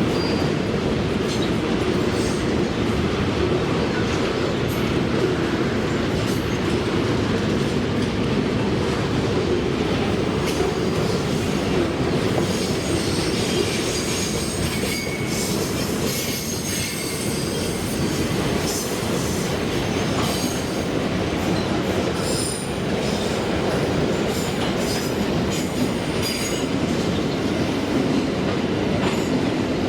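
Freight train wagons rolling past on the rails in a steady, loud rumble, with short high-pitched wheel squeals coming and going through the middle.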